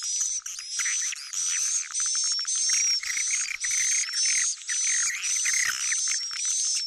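Recorded swiftlet lure call, as used to draw swiftlets into a bird house: high-pitched, buzzy twittering of swiftlets, repeating in short chirping phrases about twice a second.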